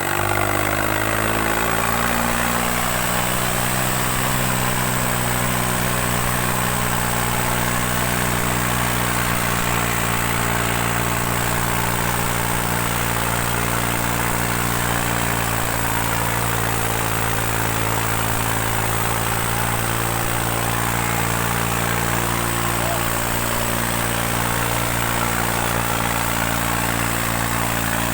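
New Holland 3630 tractor's three-cylinder diesel engine running steadily while pulling two harrows; its pitch rises a little in the first second or two, then holds even.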